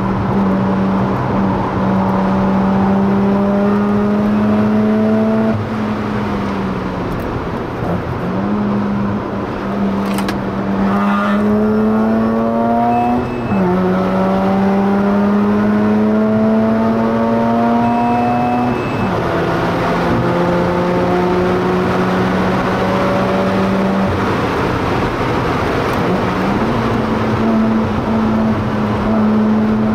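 Mazda RX-8's twin-rotor Renesis rotary engine, with an aftermarket Japspeed exhaust, pulling hard on track, heard from inside the cabin. The engine note climbs steadily, drops back sharply about five times, then climbs again, over steady road and wind noise.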